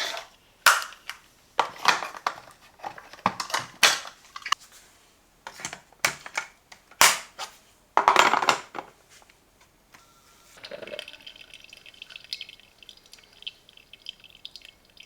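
Sharp plastic clicks and knocks as the parts of a Parkside PKMA 20-Li A1 cordless coffee machine are handled and refitted. About ten seconds in they give way to a faint steady high whine.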